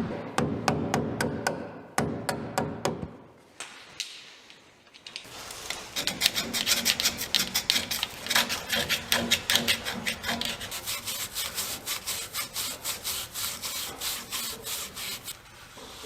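A hand tool working in quick, even back-and-forth scraping strokes, about four a second, for about ten seconds, during work on the truck's rear axle seals. A few sharper strokes come in the first second or so.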